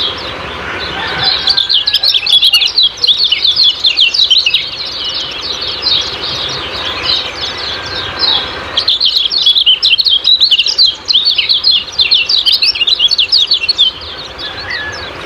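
Kecial kuning singing in its 'ciak-ciak' style: long runs of rapid, high chirps with a short break about halfway, fading near the end.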